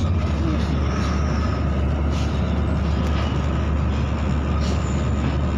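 KTMB SkyPark Link electric train running, heard from inside the carriage: a steady low rumble and hum of the moving train, with a faint steady whine above it.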